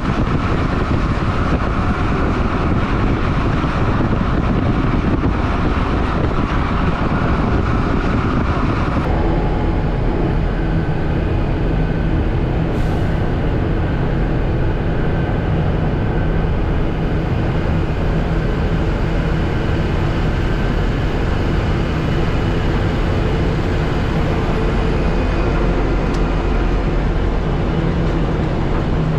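Stewart & Stevenson M1078 LMTV military truck driving, its diesel engine running steadily under road noise. The sound changes character abruptly about nine seconds in.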